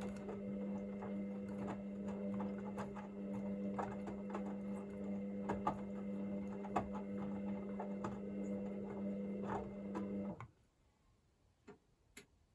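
Hoover VisionDynamic washing machine running with a steady hum and scattered clicks and ticks, cutting off suddenly about ten seconds in as the cycle moves into heating the water to 40 °C; two faint clicks follow near the end.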